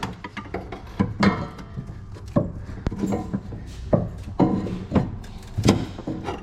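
Metal hand tools clinking and clattering in a string of irregular sharp knocks, some with a short ring.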